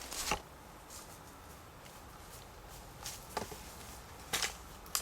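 Faint, scattered rustles and snaps, about four short ones, as of brush and sticks being handled outdoors.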